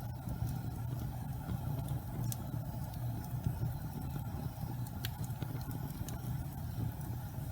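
Wood fire burning in a fireplace: a steady low rumble of flames with a few sharp crackles, the clearest about two seconds in and again about five seconds in.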